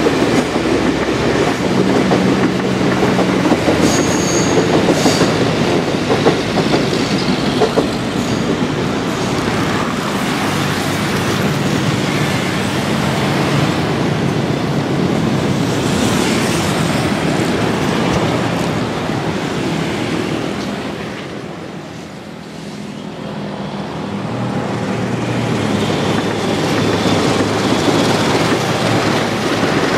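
Trains running past on the line, their wheels clattering over the rails with a brief high wheel squeal about four seconds in. The first is a 205-series electric commuter train. The sound fades about two-thirds through, then builds again as the next train comes through.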